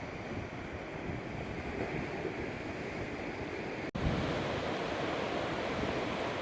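Steady noise of ocean surf, with wind on the microphone. It cuts out for an instant about four seconds in, then comes back slightly louder.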